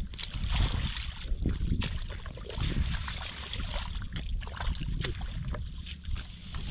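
Water sloshing and splashing in shallow floodwater, in many short irregular splashes over a low rumble.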